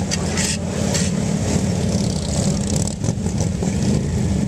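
Harley-Davidson Road King V-twin engine running steadily at low speed during slow-speed riding maneuvers.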